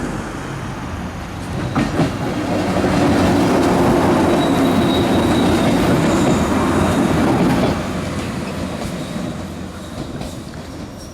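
A train passing over a railway level crossing: a steady rumble and clatter of wheels on rail that is loudest for several seconds, with a thin high wheel squeal in the middle, then eases off from about eight seconds in as the train moves away.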